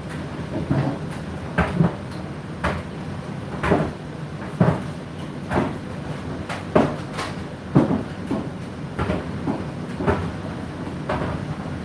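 Laundry tumbling in a rotating machine drum over a steady motor hum, with a soft thud about once a second as the load drops on each turn.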